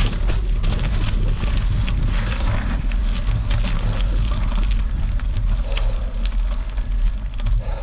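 Wind noise buffeting the microphone on a gravel bike ride, a steady low rumble, with many small clicks and crunches of bicycle tyres and the bike rattling over gravel.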